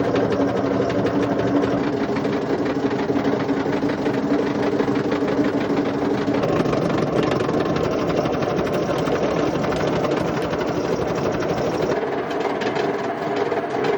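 Indesit IWC71453 washing machine with its drum turning, making a loud, continuous rough rumbling and grinding from badly worn drum bearings. A steady hum under the grinding drops out about halfway through.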